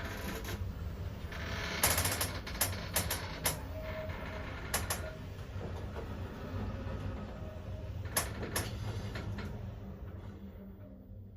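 Orona elevator car travelling down: a steady low hum with several sharp clicks and rattles, dying away near the end as the car slows to a stop.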